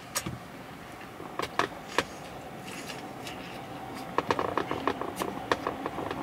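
A person chewing a mouthful of a McDonald's Junior Chicken sandwich close to the microphone. Short, sharp mouth clicks and smacks come a few at a time at first, then in a quick run from about four seconds in.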